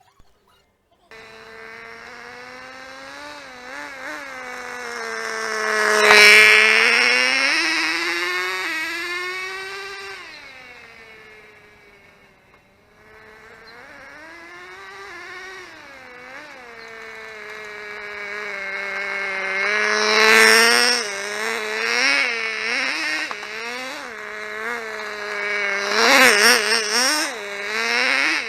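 Small engine of a 1/16-scale radio-controlled engine car running at a high pitch and revving up and down. It starts about a second in, swells loud, fades almost away midway as if driving off, then comes back and revs repeatedly near the end.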